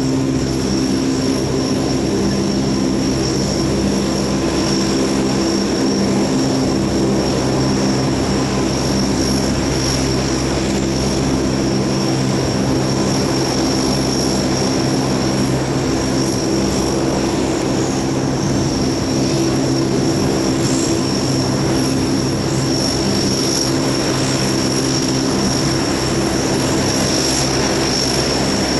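Lockheed P-3C Orion's four Allison T56 turboprop engines running steadily, a propeller drone made of several steady low tones with a thin high whine above them.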